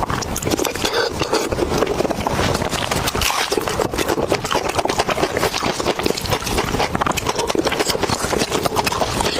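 Close-miked chewing and crunching of pig's head meat, skin and cartilage, a dense, steady run of wet clicks and crackles.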